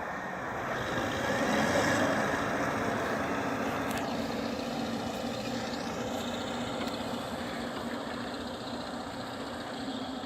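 Diesel engine of a Kirovets articulated tractor working under load as it plows snow, a steady low hum over a broad rushing noise. It grows louder to a peak about two seconds in, then slowly fades.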